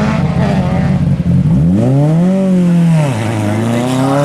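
Group B rally car engine revving hard: a rough, choppy note for the first second and a half, then the pitch climbs, drops back around three seconds in, and climbs again as it accelerates.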